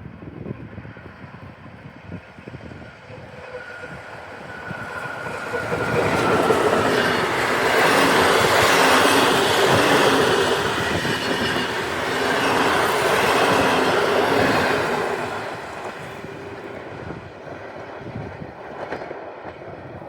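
PKP Intercity passenger train passing by. It grows louder from about five seconds in, is loudest for several seconds in the middle with a rushing rumble and a faint whine, then fades after about fifteen seconds.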